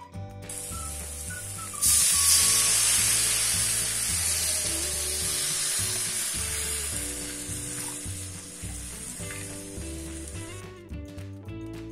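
Ground spice paste frying in an aluminium wok, with a loud sizzle that breaks out suddenly about two seconds in as coconut water is poured into the hot pan, then fades away over several seconds. Background music with a steady beat plays throughout.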